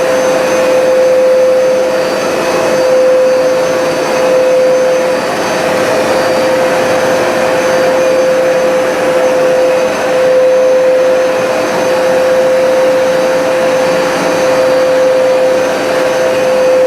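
Hoover Smartwash automatic carpet cleaner running on a rug: a steady motor whine holding one pitch over the rush of suction, getting slightly louder and softer every few seconds.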